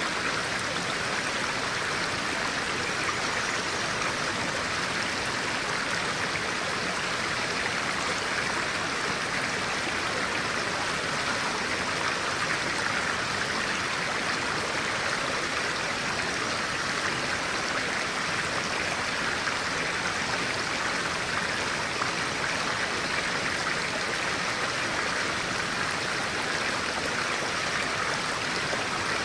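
Stream of clear water flowing steadily, an even, unbroken water sound.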